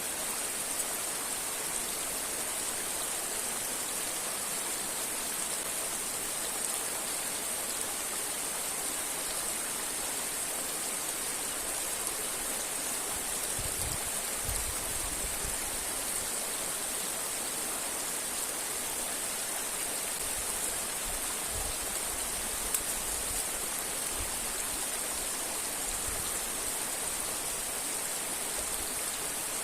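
Steady rushing of a river and waterfall, with a few faint low bumps midway.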